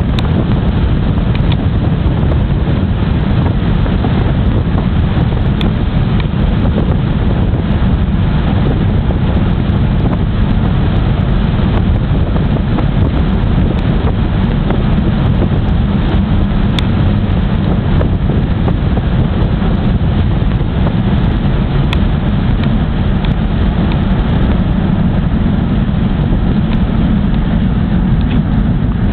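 Pontiac G8 GT's 6.0-litre V8 with a 228/240 cam, American Racing headers and stock mufflers, heard from inside the cabin with the windows down while cruising at a steady pace: a steady low exhaust drone mixed with heavy wind buffeting on the microphone.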